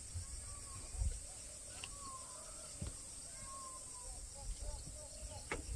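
Forest ambience: a steady high-pitched insect drone with faint whistled bird calls over a low rumble. A couple of sharp clicks come about three seconds in and near the end.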